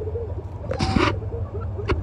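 Birds in pens making short, low clucking calls over a steady low hum. About a second in there is a brief hissing rustle, and near the end a sharp click.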